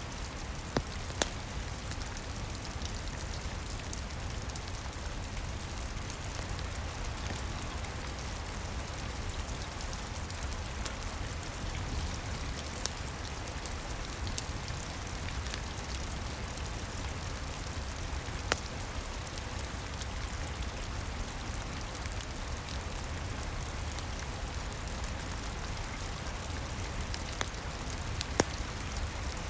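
Steady rain pattering, with a low rumble underneath and a few sharp crackles from a wood fire, the clearest about a second in, past the middle and near the end.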